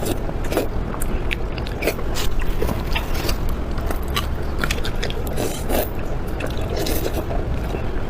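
Close-up chewing of soft, spicy pig brain: wet, irregular mouth clicks and smacks over a steady low hum.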